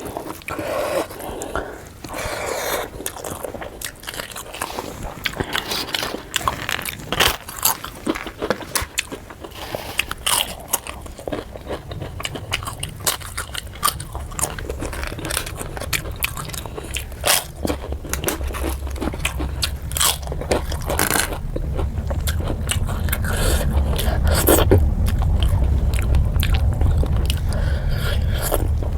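Close-miked eating: chewing and biting with frequent sharp, irregular crunches and mouth clicks as fish curry with rice is eaten. A low rumble builds up under the chewing in the second half.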